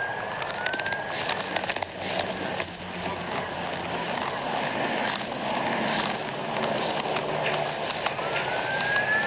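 Vehicle driving at speed: steady road and engine noise with wind, and scattered clicks and knocks. Short gliding tones come twice near the start and twice near the end.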